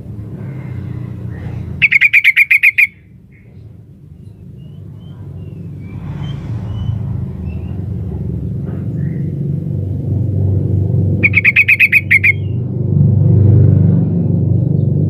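Female yellow-vented bulbul (trucukan) giving her call to the male: two loud bursts of rapid chattering, each about a second long with eight or nine quick notes, about nine seconds apart. A steady low rumble runs underneath and grows louder near the end.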